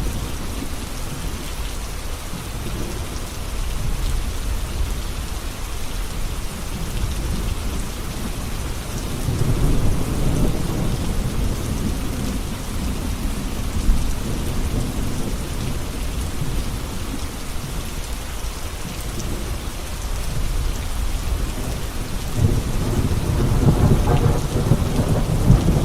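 Steady rain with rolling thunder. Low rumbles swell about nine seconds in and again near the end.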